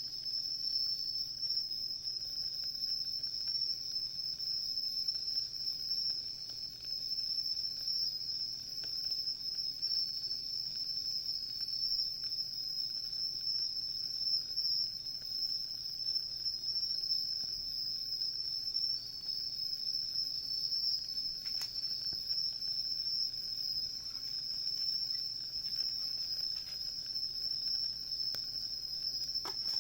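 Insects singing in a steady, unbroken high-pitched trill, with a second fainter trill just beneath it coming and going. A few faint crackles from a wood campfire.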